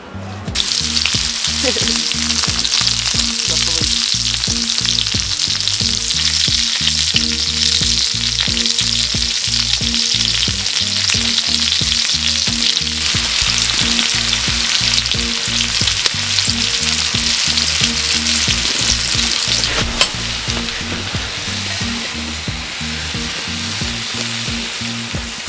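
Food frying on a hot griddle plate over a wood fire: a loud sizzle with constant crackling spatter that starts suddenly about half a second in, as the food goes onto the hot metal. It keeps up steadily and eases slightly near the end.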